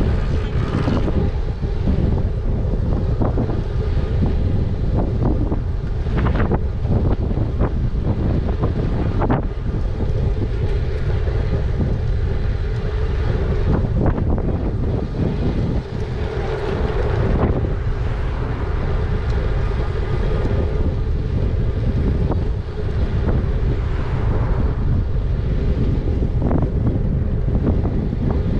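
Wind buffeting the microphone while riding an e-bike, a steady rumble with a faint hum underneath and scattered small knocks and rattles from the ride.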